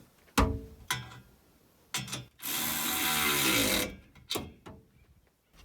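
Metal knocks and clicks from hand tools and exhaust parts while the exhaust hangers are bolted up. About two and a half seconds in, a power tool runs for about a second and a half, its pitch falling as it stops.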